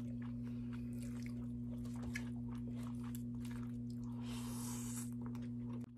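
Close-up eating sounds of pizza with a thick bread crust being bitten and chewed: soft, wet chewing with small clicks, and a rustly bite about four seconds in. A steady low hum runs underneath.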